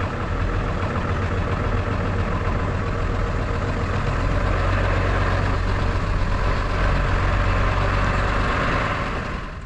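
Vehicle driving on the road: a steady mix of engine hum and road noise.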